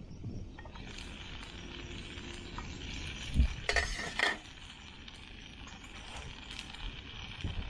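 Food sizzling in a small frying pan on a gas canister stove, with a knock and a few sharp metal clinks a little past halfway as the pan's lid is lifted off and set down.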